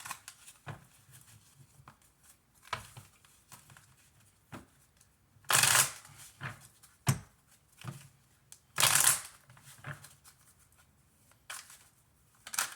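Tarot cards being shuffled and handled, with two louder riffling bursts about five and a half and nine seconds in and lighter card taps and slides between them.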